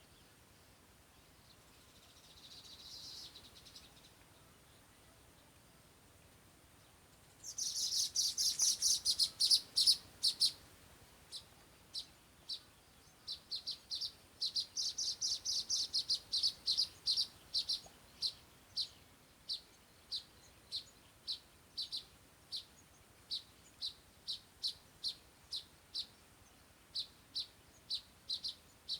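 Small bird chirping in high, short notes: a quick run of rapid chirps about a third of the way in, then single chirps repeating about twice a second.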